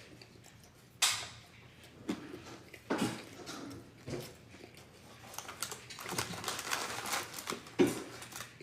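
Close handling noises from takeout food being eaten and handled: a few sharp clicks and knocks, then several seconds of dense crinkly rustling.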